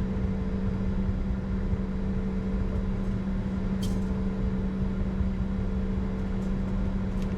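Steady cockpit noise of a Bombardier Challenger 605 on the ground with its two GE CF34 turbofans at idle: a low rumble under a constant hum. A single short click about four seconds in.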